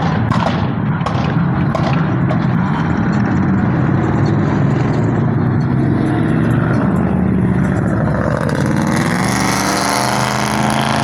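Car engines running loudly, with a few sharp cracks near the start. About two-thirds of the way through, one engine's note climbs and then holds at a higher steady pitch.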